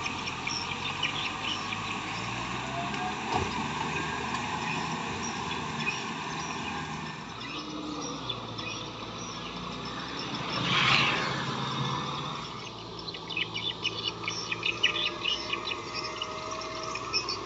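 Kubota M6040SU tractor's diesel engine running steadily, with a swell of noise about eleven seconds in. From about two-thirds of the way through, small creatures in the field add a fast, pulsed chirping.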